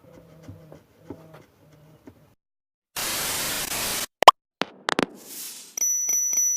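A second-long burst of loud static-like hiss, then a few sharp clicks, then a bright bell-like ding that rings on and fades slowly.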